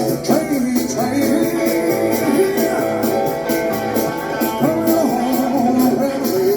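Rock and roll band music: guitar and a singing voice over a steady beat.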